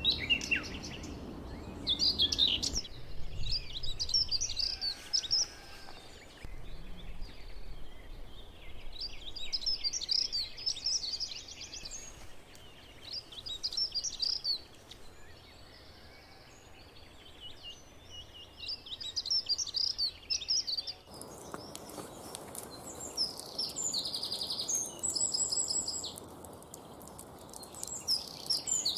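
Wild songbirds singing in short repeated phrases with pauses between them. About three seconds in, and again about twenty-one seconds in, the background noise changes abruptly as a different recording begins; the later song is higher and more evenly repeated.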